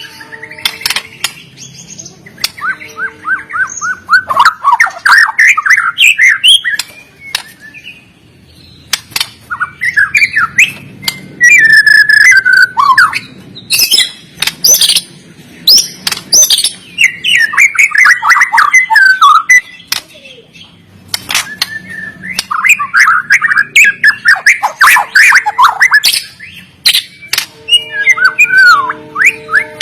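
White-rumped shama singing loudly in fast, varied bursts of whistles, chattering runs and sharp clicking notes, with short pauses between bursts. This is the energetic, fighter-style full song of a male.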